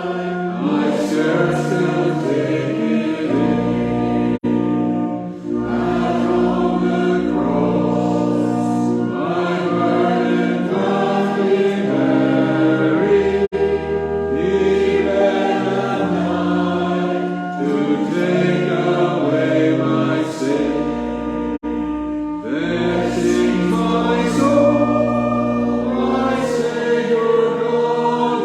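A hymn sung by many voices together, over long held bass notes from an accompanying instrument.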